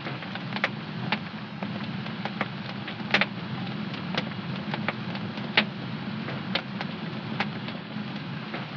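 Wood fire in a home fireplace crackling, with irregular sharp pops over a steady low rumble; the loudest pop comes a little past halfway.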